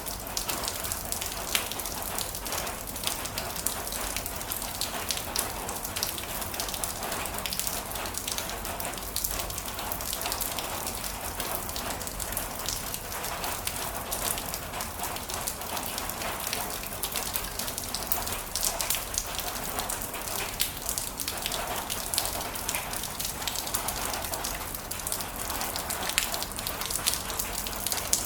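Heavy rain falling steadily, a dense hiss full of small drop ticks on a hard surface.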